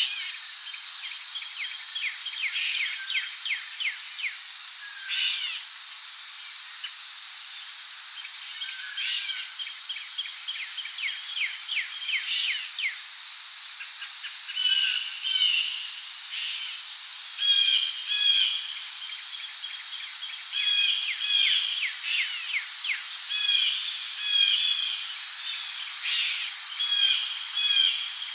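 Rainforest ambience: a steady high-pitched drone of crickets with birds calling over it in repeated rapid trills and short chirps, the calls growing busier about halfway through.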